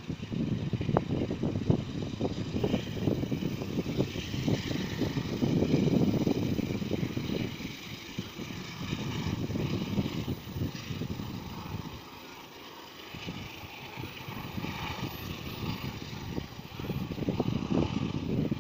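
Commuter train running away along the tracks into the distance, with wind buffeting the microphone in gusts.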